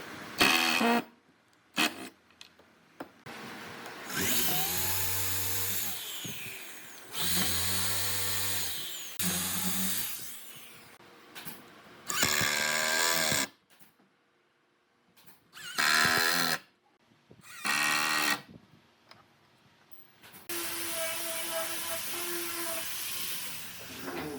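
Electric power tools running in a string of short bursts that start and stop abruptly, the motor pitch rising and falling in several of them. Near the end a motor runs at a steady pitch for about three seconds.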